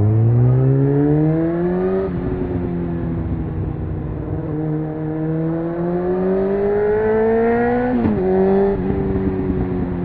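Honda CBR600F inline-four engine accelerating hard: the revs climb, drop sharply at an upshift about two seconds in, climb again, and drop at a second upshift near the end.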